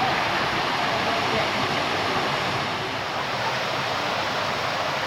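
Steady rushing of water from a small waterfall, Frog Bayou Waterfall, running with a light flow.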